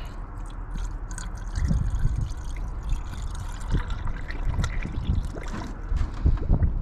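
Water being poured into a car's cooling system, trickling and gurgling unevenly.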